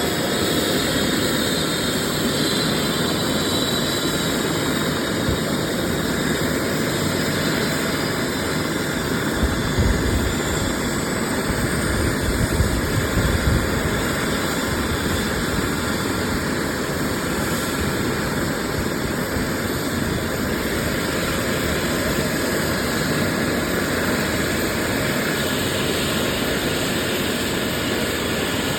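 Aircraft engine running steadily, a continuous rushing turbine noise, with a few low rumbling gusts about ten to fourteen seconds in.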